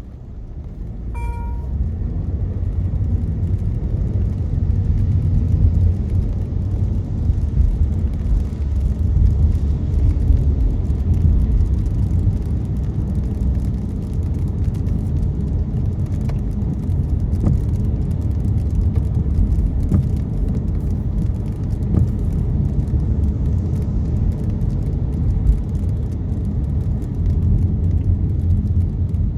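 A car driving on a rain-wet road, heard from inside the cabin: a steady low road and engine rumble that builds over the first few seconds as the car picks up speed. A short electronic chime sounds about a second in.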